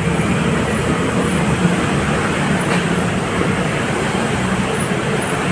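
Steady road-vehicle noise: a constant low engine hum under a hiss of traffic and road sound, with no distinct events.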